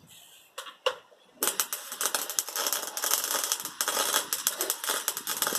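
Wire-feed welder arc crackling as a weld bead is laid: a couple of short clicks, then about a second and a half in a dense, continuous crackle that runs on without a break.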